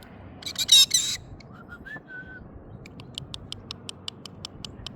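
A bird gives one loud, harsh squawk, then a few faint short whistled notes, then a rapid run of short high chirps at about seven a second.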